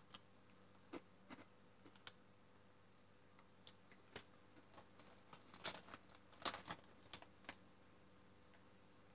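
Faint, irregular crunches of a person chewing a crisp bean-and-rice tortilla chip, a dozen or so soft cracks coming more often in the second half.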